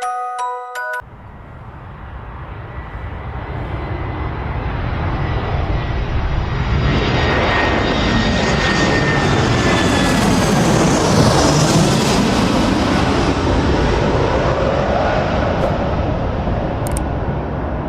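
Jet aircraft flying past: the engine noise swells over several seconds to a peak about ten to twelve seconds in, with a faint falling whine, then eases off.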